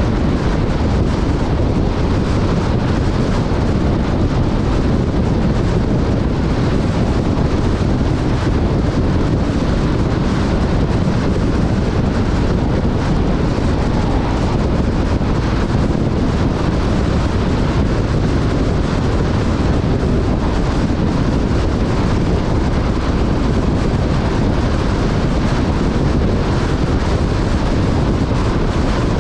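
Off-road vehicle driving steadily over sand, its engine and motion noise mixed with heavy wind buffeting on the microphone.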